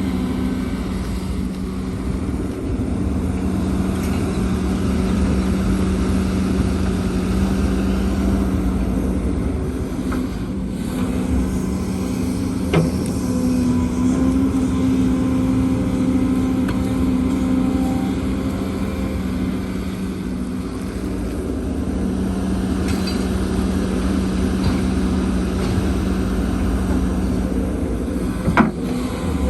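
Heavy diesel earthmoving machinery (excavator and dump trucks) running steadily under load, with a couple of short sharp knocks, one about halfway through and one near the end.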